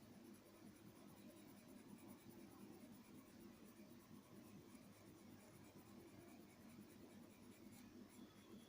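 Faint, steady scratching of a graphite grade pencil shading on paper.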